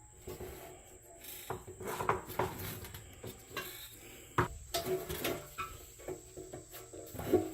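Small metal parts clinking and knocking irregularly as they are handled, with a few sharper clanks that ring briefly.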